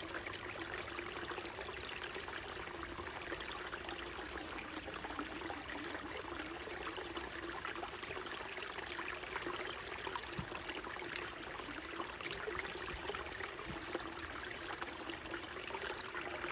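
Small mountain stream flowing steadily over rocks, a continuous trickling and babbling with a faint steady hum under it.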